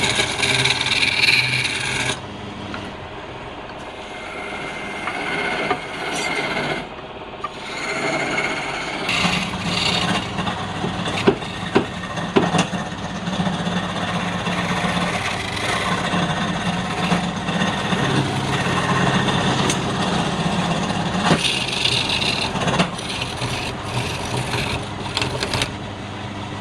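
Wood lathe running while a tool scrapes and cuts the spinning wood: a continuous rasping scrape over a steady low motor hum, changing abruptly a few times.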